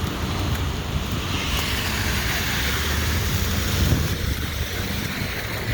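Downtown traffic on a wet, slushy street: a vehicle passes with a swelling hiss of tyres that fades again near the end, over a steady low rumble.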